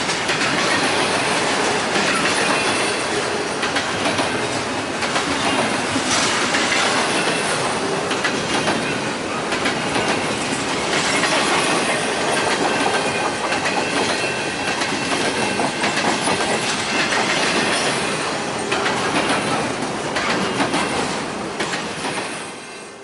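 Railroad cars rolling past, wheels clicking over rail joints, with a faint high wheel squeal in the second half. The sound drops away near the end.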